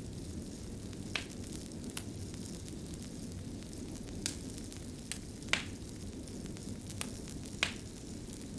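Wood fire burning with a steady low rumble and scattered sharp crackles and pops, about eight in all, the loudest a little past halfway and again near the end.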